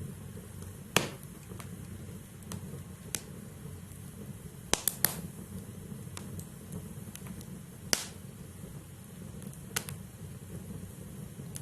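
Wood logs burning in a fireplace: a low, steady rumble of flame with sharp crackles and pops at irregular intervals. A loud pop comes about a second in, a quick run of three near the middle, and another loud pop about eight seconds in.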